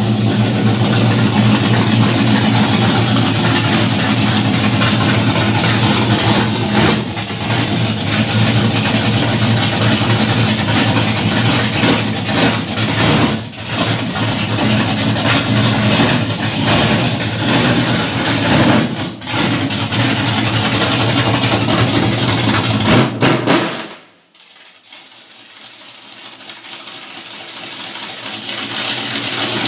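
Pontiac Firebird's engine running loudly with a steady low rumble, dipping briefly a few times. About 24 seconds in the engine sound stops abruptly, and a hiss then rises steadily.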